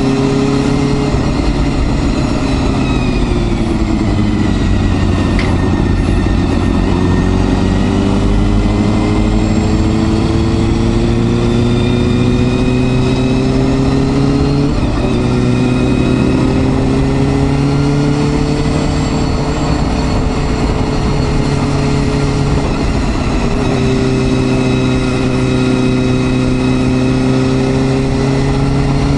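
Honda Hornet 250's four-cylinder engine pulling under way: the note drops early on, then climbs steadily as the bike accelerates, with sudden drops in pitch about halfway and near the end at gear changes.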